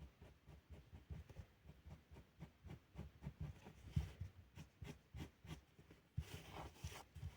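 Faint irregular soft taps and knocks of drawing with a felt-tip pen on paper, with a short scratchy stretch of pen strokes near the end.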